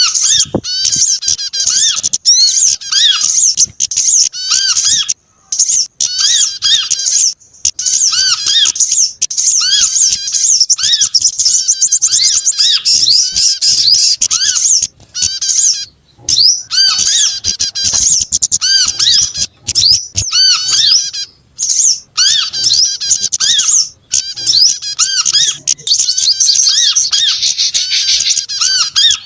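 Bird-lure recording of prinias and other small songbirds, a dense mix of rapid, high chirps and twitters layered over one another, broken by a few brief pauses.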